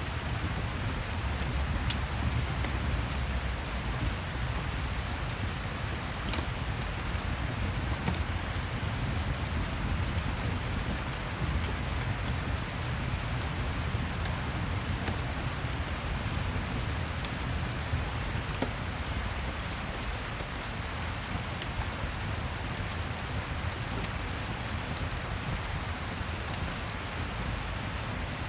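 Steady rain ambience with a deep low rumble underneath, mixed with the faint scattered crackles of a fireplace.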